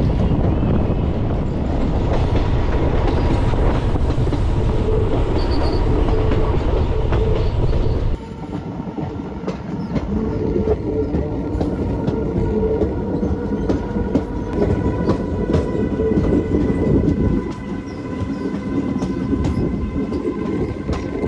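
Passenger train running, heard from an open coach door: a heavy wind rumble on the microphone for the first eight seconds, then the wheels clicking steadily over the rail joints with a thin, steady wheel squeal as the train rounds a curve on a viaduct.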